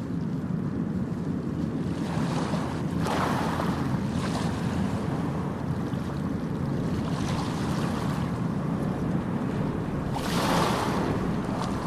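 Ocean surf: a steady low rumble of the sea, with waves breaking and washing in about three seconds in and again near the end.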